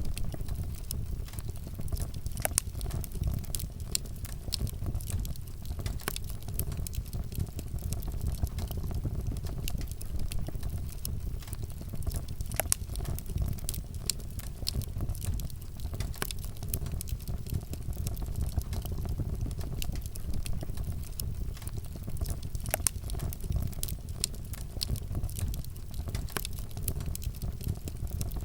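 Wood fire burning, with a steady low rumble and frequent sharp crackles and pops of burning wood.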